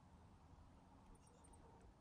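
Near silence, with a few faint, short, high chirps from small birds a little over a second in.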